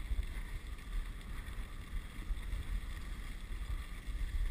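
Wind rumbling on the microphone of a moving dog sled, over the steady hiss of the sled's runners gliding on snow.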